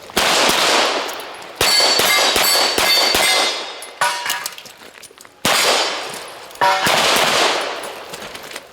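Gunshots fired one after another at uneven intervals, each followed by a long echo, with steel targets ringing in clear tones between the shots.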